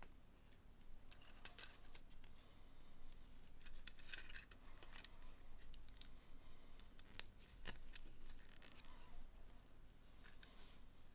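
Small plastic LEGO pieces being handled and pressed together: scattered light clicks and short scraping rustles, faint.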